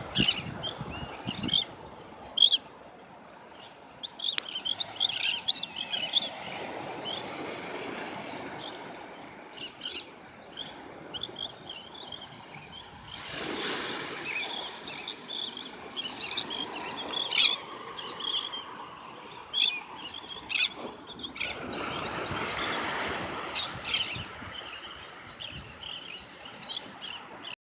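Birds chirping, many short high calls overlapping and coming in quick flurries. A rushing noise swells up twice, near the middle and about three-quarters of the way through.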